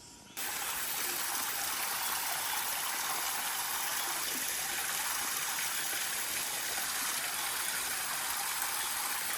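A steady rushing noise that cuts in abruptly less than half a second in and holds even throughout.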